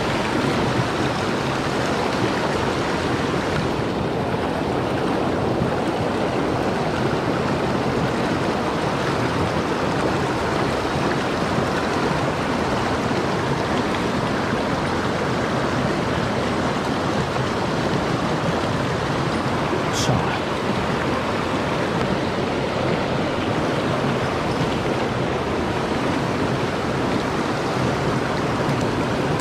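Mountain stream water flowing steadily, with one short sharp click about two-thirds of the way through.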